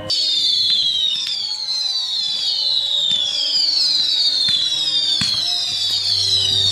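Whistling fireworks going off in a barrage: many shrill whistles overlapping, each falling in pitch, with a few sharp cracks among them. The sound starts suddenly and stays loud throughout.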